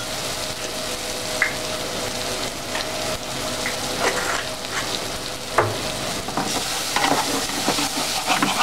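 Chili paste of ground dried chilies, shallots and garlic sizzling in oil in a non-stick pan, stirred and scraped with a wooden spatula, the steady sizzle broken by scattered scraping clicks.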